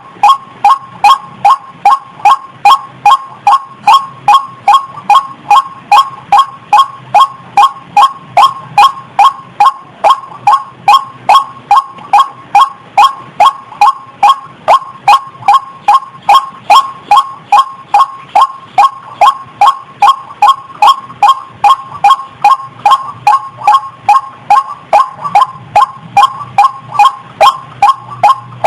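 Female rail in breeding condition calling: one short note centred near 1 kHz, repeated loudly and very evenly about two to three times a second without a break.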